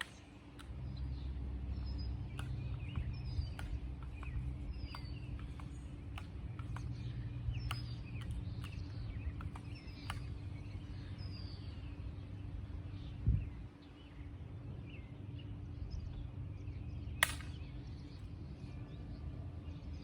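Small birds chirping with short, repeated downward-sliding calls over a low rumble, with a dull thump about two-thirds of the way through. Near the end comes a single sharp crack: a shot from a pump-up pellet air rifle.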